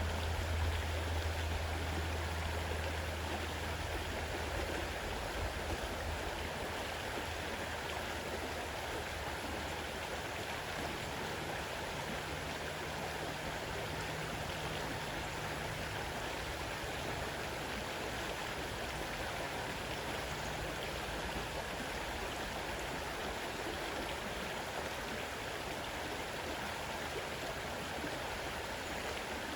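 Fast-running river rushing steadily over its bed. A low rumble underneath fades out over the first few seconds.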